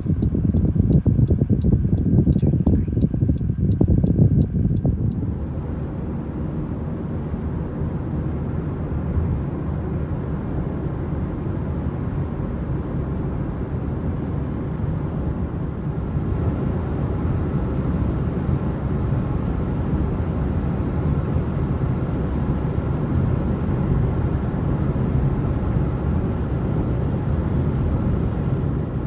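Car interior road and tyre noise at highway speed, a steady rumble. A regular ticking runs over it for the first five seconds or so, then stops.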